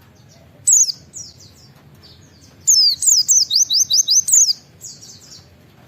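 Pleci (white-eye) singing: a single sharp, high down-slurred note, then after a pause a fast run of about seven sharp whistled "wit wit" notes sweeping up and down, and one faint note after it.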